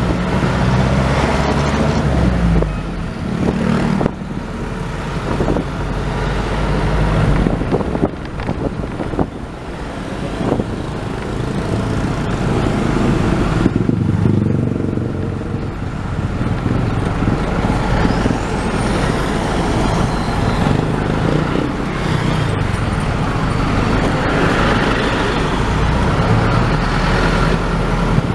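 Road traffic: car and truck engines running, shifting in pitch, over steady tyre and road noise.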